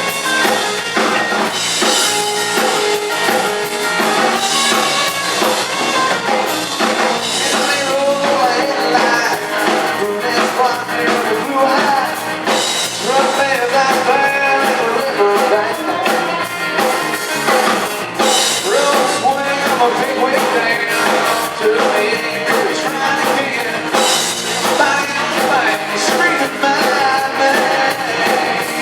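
Live country band music: a singer over electric guitar and a drum kit playing a steady beat.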